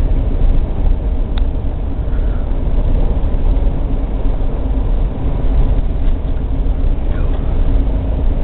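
Steady low rumble of a moving vehicle's engine and tyres on the road, heard from inside the cab, with one faint click about a second and a half in.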